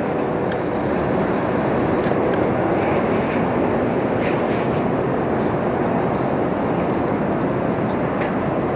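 Air Canada Airbus A220-300 passing overhead on its approach, its Pratt & Whitney PW1500G geared turbofans making a loud, steady jet rush. A small bird chirps repeatedly in the middle of the pass, with short arched notes.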